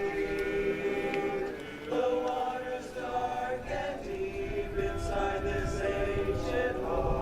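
A cappella choir singing slow, held chords in close harmony, changing chord every second or two.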